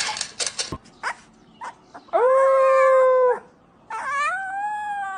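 Two long, drawn-out animal calls, the first held level and the second arching up and then falling, after a few sharp clicks in the first second.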